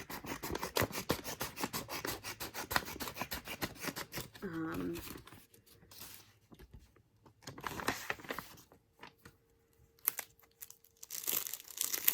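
Packaging being torn open and handled: a quick run of crackling tears for the first few seconds, then quieter rustling with short bursts of crinkling later on. A brief vocal sound comes about four and a half seconds in.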